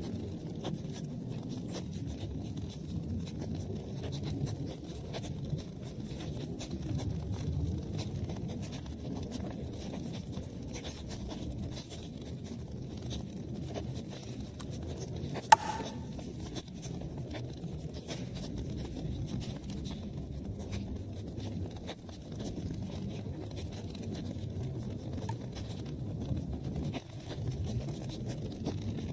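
Wood fire burning in a fireplace: a steady low rumble of flames with many small crackles, and one sharp, loud pop about halfway through.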